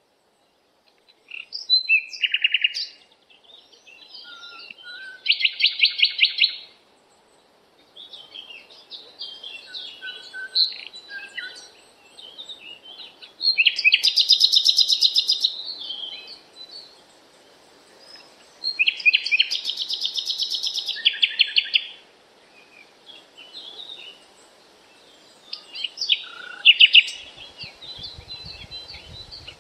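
Birds chirping and singing, with scattered calls and several bursts of rapid trilled notes, the longest about a third and two thirds of the way through.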